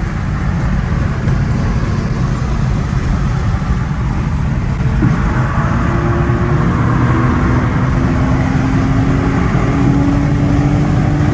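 Infiniti G37's 3.7-litre VQ V6 with the mufflers deleted, running hard at highway speed over road and wind noise; from about five seconds in it gets louder and its note climbs slowly as the car accelerates.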